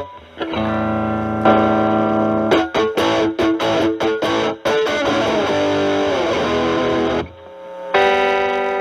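Stratocaster with single-coil pickups played through a Proco RAT2 distortion at about 10 o'clock gain, stacked with an Ibanez TS9 as a boost, into a Marshall Valvestate amp. It plays a held distorted chord, then single-note phrases with a falling slide, a brief pause, and another held chord.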